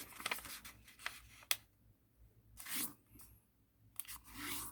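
A sheet of origami paper being handled and folded: short crisp paper swishes and a few sharp creasing snaps as a fold line is pressed in.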